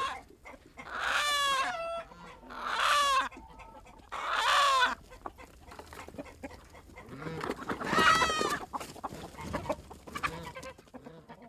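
Chickens squawking and clucking: four loud, drawn-out squawks that fall in pitch, about one, three, four and a half and eight seconds in, with softer clucking between them.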